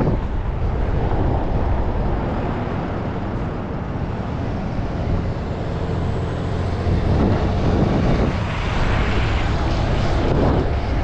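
Wind rushing over the microphone of a moving bicycle, a steady noise with road noise underneath, swelling a few times in the second half.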